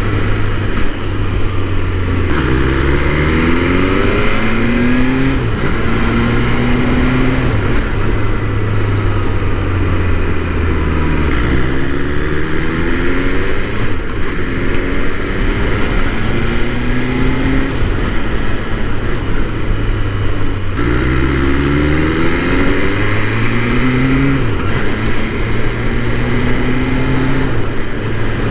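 BMW S1000R's inline-four engine accelerating hard through the gears three times. In each run the pitch climbs in every gear and drops back at each upshift.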